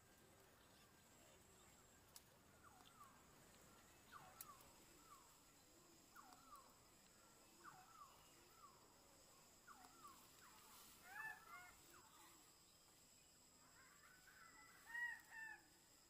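Faint bird calls: a run of short whistled notes that slide down in pitch, about one or two a second, then louder, fuller calls twice near the end, over a steady high hum.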